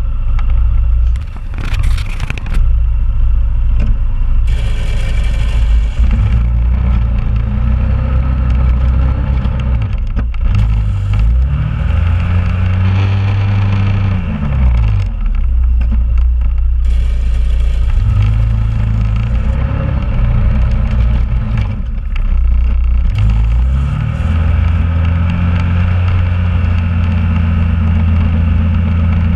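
2001 Honda Rubicon ATV's single-cylinder engine running under load while plowing snow, its revs rising and falling several times as it pushes and backs off, with the plow blade scraping. A couple of sharp knocks a second or two in.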